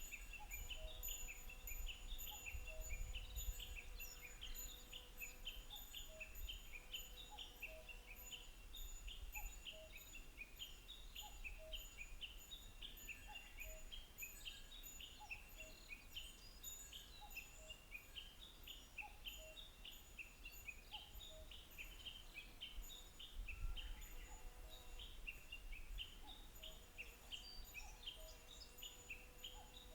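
Open marsh ambience: a dense chorus of short, rapidly repeated high chirps that never lets up, with fainter steady pulsing calls beneath it. Low wind rumbles on the microphone, gusting about three seconds in and again near the middle.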